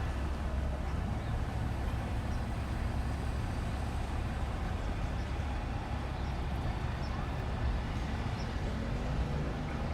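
A steady low engine rumble with no sudden changes.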